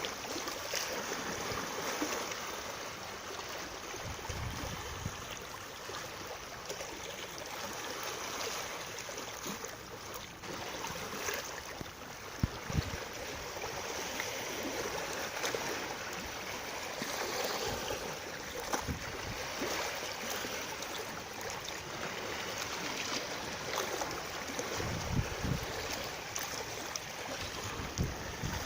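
Flowing water, a steady rushing with a few soft low knocks.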